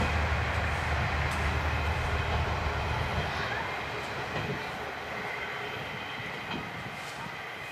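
Diesel railcar pair (KiHa 38 and KiHa 37) running by on the rails, its low engine rumble and wheel noise fading steadily as it moves away, with a few wheel clicks.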